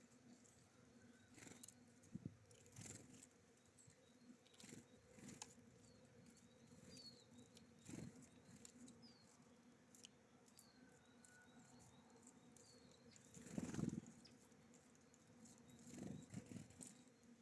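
Small birds at a feeder, heard faintly: scattered light taps and clicks, a few faint short high chirps, and one louder rustle about fourteen seconds in.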